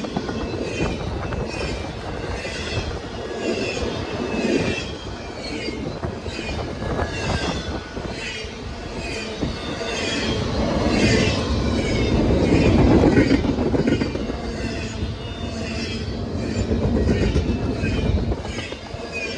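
A train rolling past, its wheels squealing in short repeated screeches and clacking over the rail joints, over a steady rumble that swells about twelve seconds in.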